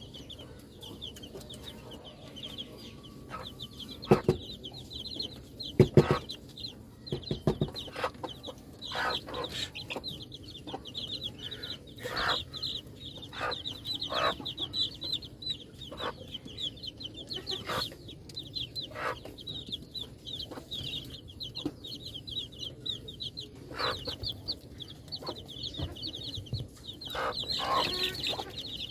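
Baby chicks peeping continuously in a dense run of rapid, high-pitched cheeps, with scattered sharp taps and knocks among them, the loudest about four and six seconds in.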